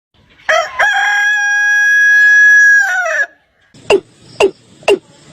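A rooster crowing: one long cock-a-doodle-doo with a held high note that drops off at the end. Near the end, a different call starts: short, sharp, downward-sweeping notes about two a second.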